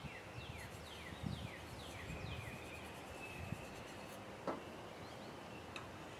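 Faint outdoor background: a bird calling a quick run of about seven down-slurred whistles, with a thin steady high tone, then a single light knock about four and a half seconds in.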